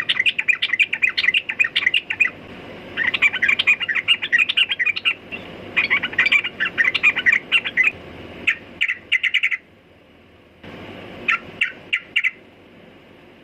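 Yellow-vented bulbul (trucukan) singing: runs of rapid, bubbling chirped notes, each lasting a second or two, separated by short pauses. After a brief gap in the middle the phrases come shorter and sparser.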